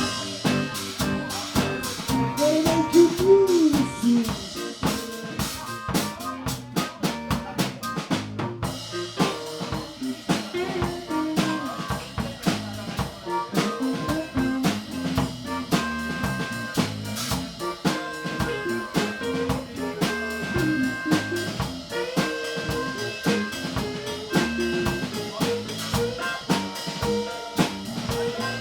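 A small live band playing, with a drum kit (snare, bass drum and rim clicks) keeping a steady beat under bass and pitched melody instruments.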